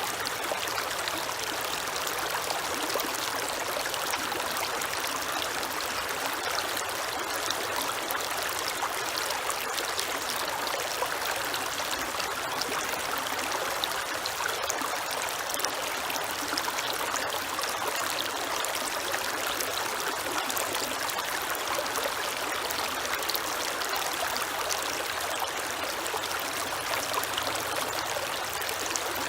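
Creek water running and trickling steadily, a continuous rushing babble with no pauses.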